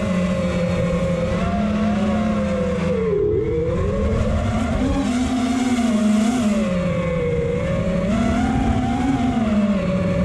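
FPV quadcopter's brushless motors whining, the pitch rising and falling with the throttle: it drops sharply about three seconds in, then climbs back. A steady rushing noise runs underneath.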